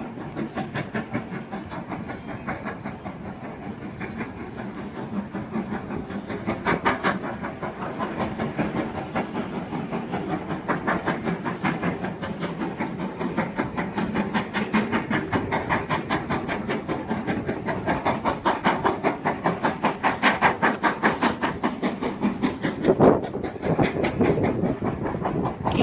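GWR Manor-class 4-6-0 steam locomotive and its train running, with a fast, even rhythm of beats over a steady hiss, growing louder through the stretch.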